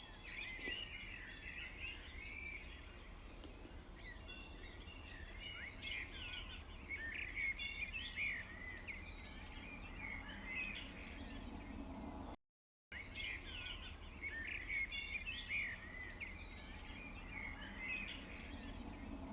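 Several small songbirds chirping and twittering in quick, overlapping phrases over a steady low background rumble. All sound cuts out completely for about half a second roughly two-thirds of the way through.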